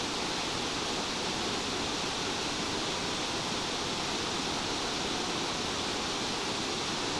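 Steady, even rush of nearby falling water, a waterfall or stream flowing without a break.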